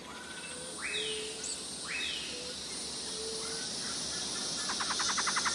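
Wild birds calling: two sharp upward-sweeping whistles about a second apart, a few short lower notes, then a fast rapid trill starting near the end.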